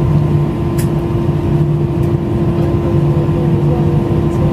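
Steady machine hum with a constant mid-pitched tone and a low hum that swells and fades every second or so, with a faint click about a second in.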